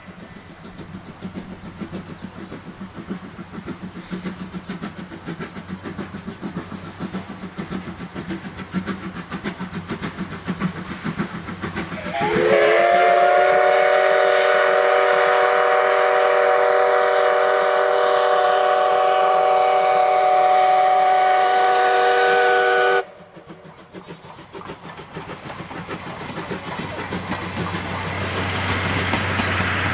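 Steam locomotive C11 123, a JNR Class C11 tank engine, working with rhythmic exhaust chuffs that grow louder as it approaches. About twelve seconds in, it gives one long steam whistle blast of several pitches sounding together, which swoops up at the start and cuts off sharply about ten seconds later. Then the chuffing returns and builds again.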